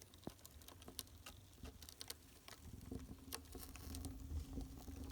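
Test fire crackling in a newly built brick fireplace-stove, with scattered sharp snaps and a low rumble; from about two and a half seconds in a steady low hum rises as the draft draws the flame through the firebox, the sign that the flue is drawing well on first lighting.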